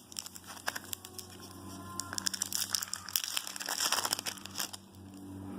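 Crinkling and rustling as Topps Chrome trading cards are handled and flipped through by hand, in a run of irregular small crackles and clicks.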